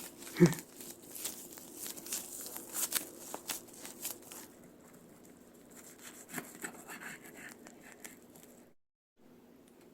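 Dry gim (laver) crinkling and rustling as a gimbap roll is wrapped and handled by hand, with light scrapes and clicks, fading to a faint rustle after about four and a half seconds.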